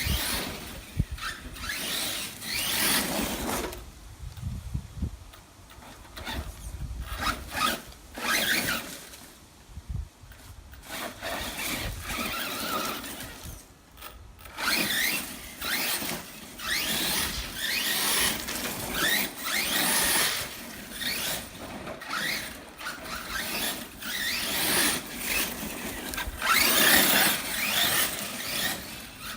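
Arrma Kraton 1/8-scale electric RC monster truck driven hard in repeated bursts, its brushless motor on 4S whining up and down in pitch with the throttle while the tyres scrabble over the ground. There are short lulls where it slows or stops.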